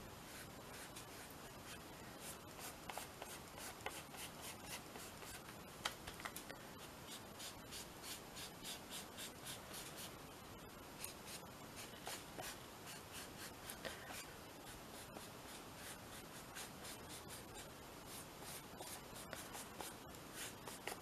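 Faint rubbing and dabbing on a paper journal page as gesso is worked on, in a loose run of soft strokes.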